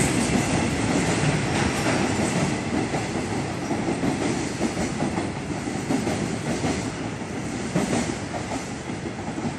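Freight train rolling past, its wagons' wheels running on the rails with a few short knocks; the sound gradually gets quieter.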